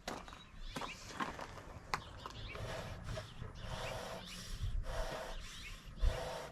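Bee smoker's bellows being pumped to fan burning pine shavings: a run of short puffs of air, about one a second, after a few small clicks and rustles from handling the smoker.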